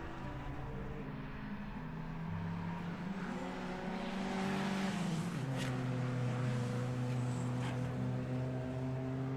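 A vehicle engine running at a fairly steady speed, its pitch shifting in steps and dropping noticeably about five seconds in, over road or wind noise.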